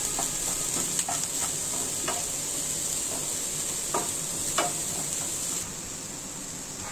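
Chopped onions and carrots sizzling in oil and garlic butter in a nonstick pan, with a wooden spatula scraping and tapping the pan a few times as they are stirred. The sizzle drops quieter about five and a half seconds in.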